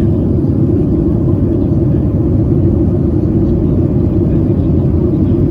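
Boeing 737 cabin noise heard from a passenger seat: a steady low rumble of engines and airflow that holds level throughout.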